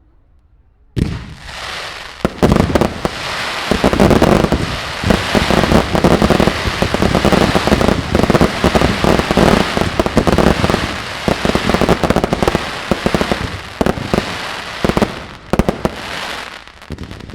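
Fireworks display. About a second in, a dense barrage of bangs and crackling bursts starts suddenly and runs on without a pause, easing off near the end.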